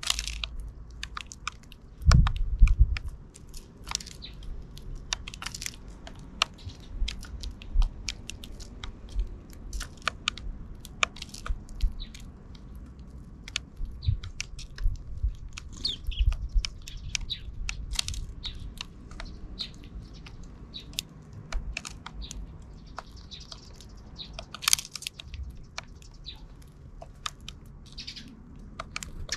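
Sparrows pecking and cracking seeds, a busy patter of small sharp ticks and crunches, with a few short chirps. A low thump comes about two seconds in.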